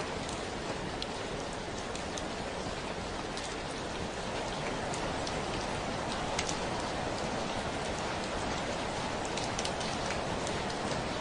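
Steady rainfall, with scattered individual drops ticking sharply against it.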